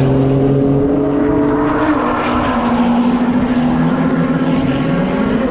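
Drag-racing car engines held at steady high revs, their pitch stepping down about two seconds in and rising again near the end.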